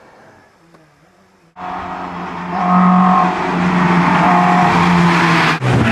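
A car driving fast along a narrow road close by, with loud engine and tyre noise that starts suddenly about a second and a half in.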